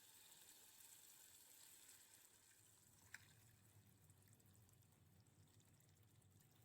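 Near silence: faint kitchen room tone with a soft hiss and a single small click about three seconds in.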